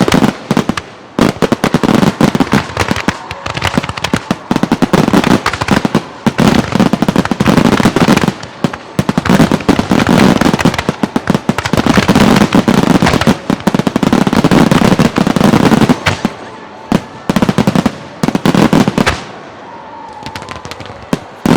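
Aerial fireworks shells bursting in a dense, rapid barrage of bangs with crackle between them. After about nineteen seconds it thins to a few scattered bangs.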